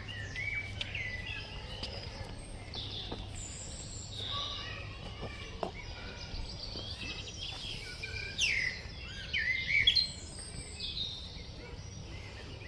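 Wild birds chirping and singing in a steady stream of short, quick calls, busiest and loudest about eight to ten seconds in, over a low steady background hum.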